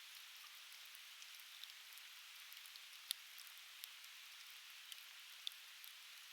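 Conifer firewood burning in a bonfire, crackling with irregular sharp pops and snaps, the loudest about three seconds in, over a soft steady hiss.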